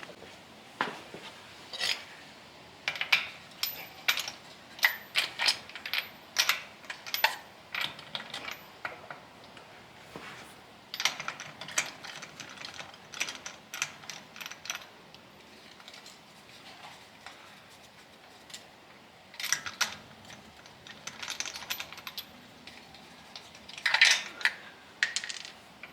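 Irregular metallic clicks and clinks of hand tools and small nuts and bolts, in clusters, as a wheel's factory center cap is unbolted from the back of the wheel.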